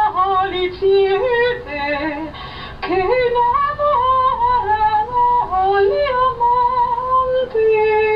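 A woman's voice singing a slow melody with sliding, ornamented pitches and long held notes.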